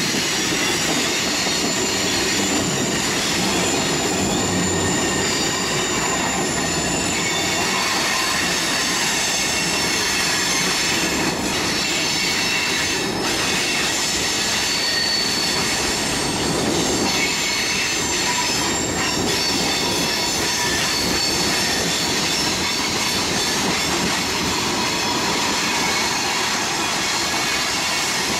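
Freight train of tank cars rolling past: a steady rumble of steel wheels on rail, with high-pitched wheel squeal running over it.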